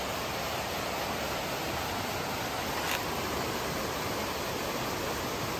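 Steady rushing of a river flowing over rocks, with a short click about three seconds in.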